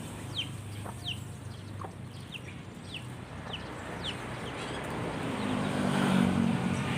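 A small bird repeating a short falling chirp about every half second or more, stopping about four seconds in, over a low steady hum that grows louder near the end.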